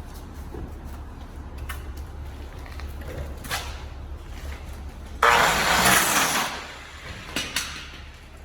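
A steady low hum with a few scattered clicks, and a sudden loud hiss about five seconds in that lasts just over a second and then fades.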